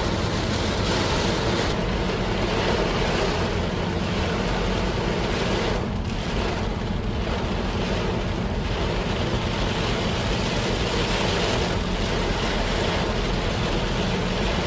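Storm wind blowing hard, a steady rushing noise with the wind buffeting the microphone.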